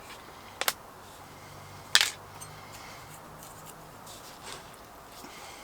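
Two sharp clicks, the second louder, over a faint steady low hum.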